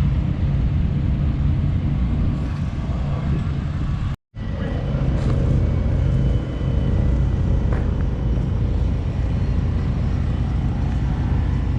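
A motor vehicle's engine running steadily with a low rumble, broken by a brief silent gap about four seconds in.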